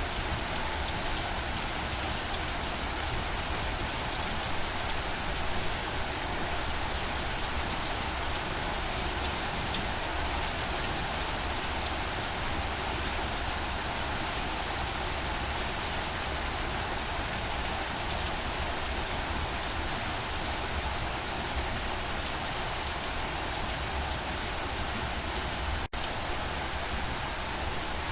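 Steady rain falling on a surface: a dense, even hiss dotted with the ticks of individual drops. A split-second gap cuts the sound near the end.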